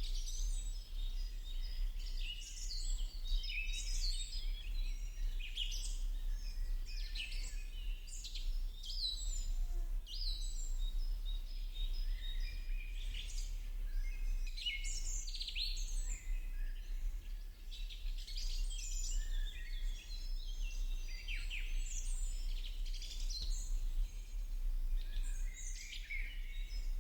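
A chorus of songbirds chirping and singing, many short overlapping calls and trills, over a steady low hum.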